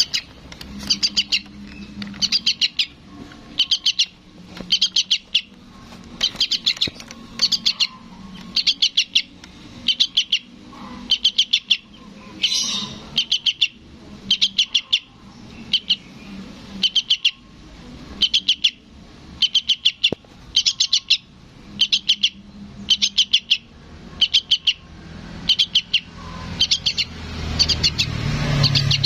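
Sooty-headed bulbul fledgling calling for its parent: short, high bursts of a few rapid chirps, repeated a little faster than once a second.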